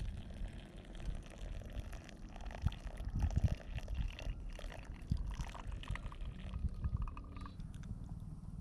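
Liquid being poured and trickling, over a low rumble.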